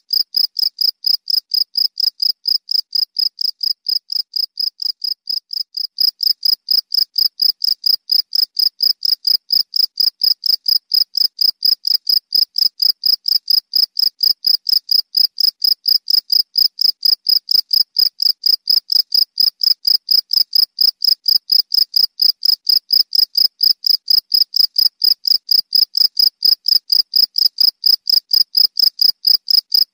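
Cricket chirping: a steady, rapid train of short high-pitched pulses, about four or five a second, growing louder about six seconds in.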